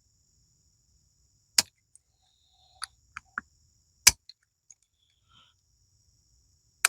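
Sharp metallic clicks and clinks of hand tools working a small steel spring, bending it back into shape. There are two loud clicks, about a second and a half in and about four seconds in, with a few lighter ticks between and near the end. A faint steady high-pitched tone sits underneath.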